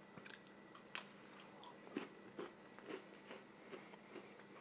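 A person biting into and chewing a cracker topped with cheese spread: faint crisp crunches, a sharper one about a second in, then irregular chewing.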